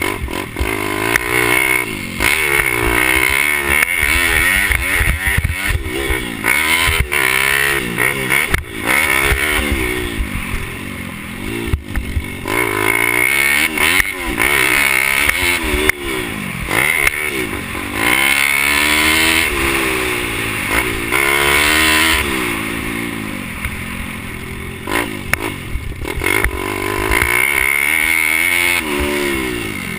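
Pit bike engine racing, its pitch rising and dropping over and over as the throttle is opened and closed every second or two, with scattered knocks.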